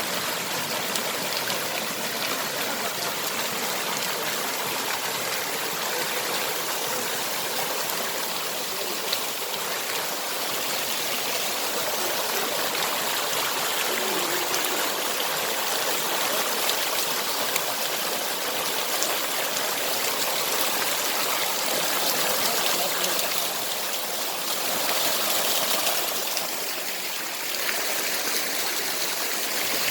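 Steady rushing of a waterfall's water, a continuous even hiss with no breaks.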